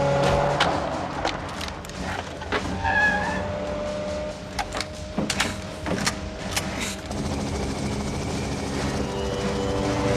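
Film sound mix of a vehicle engine running, with a series of sharp bangs and knocks over the first seven seconds, then a steadier engine drone.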